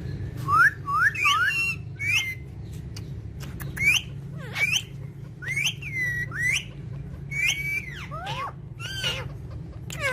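Parrot whistling: a string of short rising whistled notes, about a dozen, with a few falling notes near the end and some sharp clicks between them.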